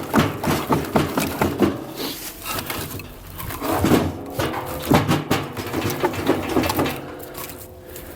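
Split firewood pieces knocking against each other and a bundle bag rustling as the bag is packed tight and handled, a run of short knocks that thins out near the end.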